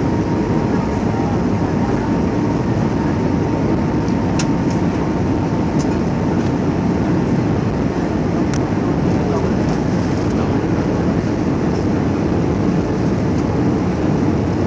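Steady cabin noise inside an Airbus A320 in flight: a constant rumble of the engines and the air rushing past the fuselage, with a faint high whine that fades out in the first few seconds.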